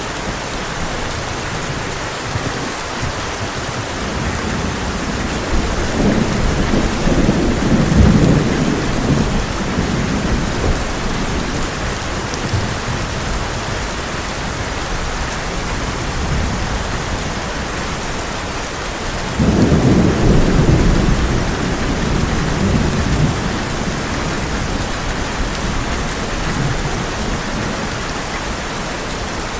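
Heavy rain drumming steadily on a tin roof, with two deep rolls of thunder. The first swells up about a quarter of the way in. The second breaks suddenly about two-thirds of the way in and rumbles away over a few seconds.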